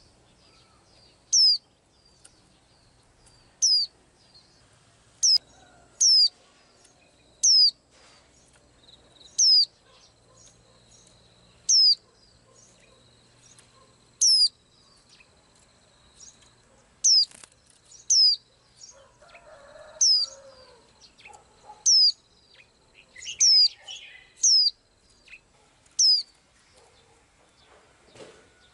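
A small bird calling over and over: short, sharp, very high notes, each sliding steeply down in pitch, one every one to two seconds, about fifteen in all.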